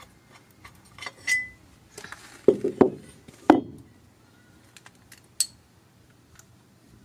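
Loose steel bolts and small metal engine parts being handled, clinking and knocking against each other and against metal. There are a few light clicks, then a loud cluster of knocks a little past halfway, then one last ringing clink.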